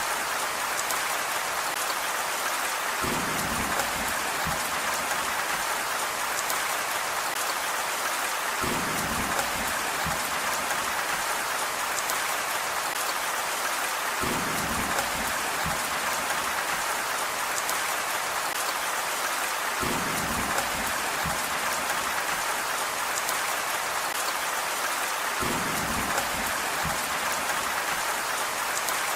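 Steady, even rain hiss. A short low rumble comes back about every five and a half seconds.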